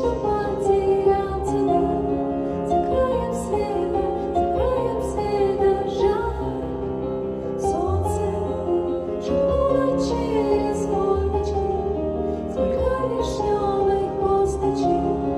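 A woman singing a slow, tender song in Russian over instrumental accompaniment.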